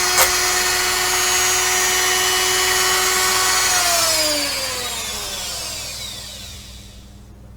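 Small high-speed rotary tool with a polishing bit running at a steady whine against a pewter cast, then switched off about four seconds in, its pitch falling as it spins down to a stop.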